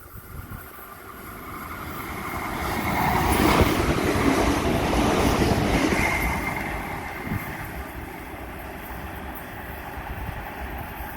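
A Sydney Trains electric passenger train runs past. Its noise builds to a loud peak a few seconds in, then dies away.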